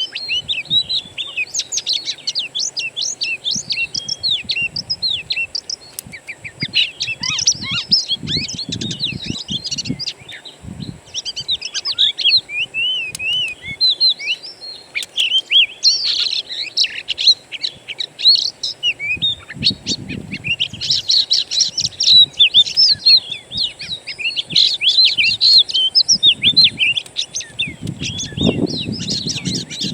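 Dense chorus of wild songbirds, many short chirps, whistles and trills overlapping continuously. A low rumble swells and fades a few times underneath.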